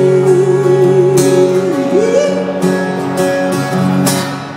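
Live band music at the end of a song: guitar chords ring under a long held sung note with vibrato. The note slides upward about two seconds in, and there are fresh guitar strums at about one and four seconds.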